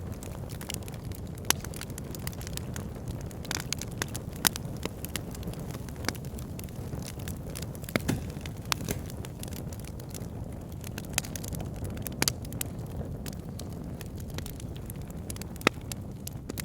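Fire in a backyard fire pit crackling: irregular sharp pops and snaps, a few standing out loudly, over a steady low rumble of the flames.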